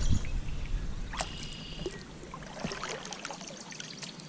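Water trickling and lapping at a kayak, with scattered light knocks and clicks.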